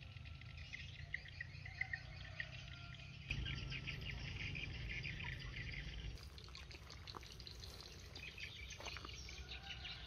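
Outdoor ambience of birds chirping in quick repeated notes over a steady low hum, louder from about three seconds in.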